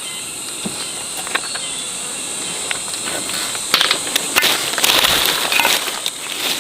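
Steady high-pitched drone of insects, with scattered sharp clicks and rustling that grows busier about halfway through.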